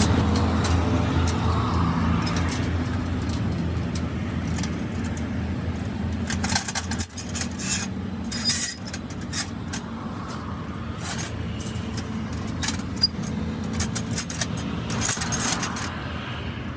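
A steady low engine or traffic hum that slowly fades, with many light metallic clinks and scrapes from about six seconds in.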